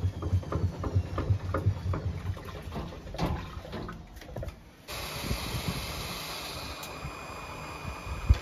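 Washing machine: a few irregular clunks, then, about five seconds in, water suddenly starts rushing in through the inlet with a steady hiss and a faint whistle, as the machine fills.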